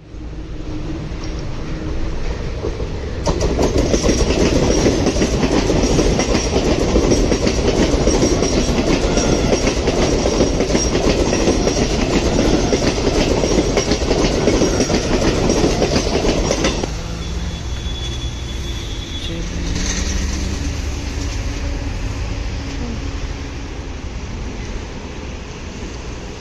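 Mumbai suburban local electric multiple-unit train running past close by, its wheels clattering on the rails. The clatter is loud for about 13 seconds and cuts off abruptly, leaving a quieter steady rumble.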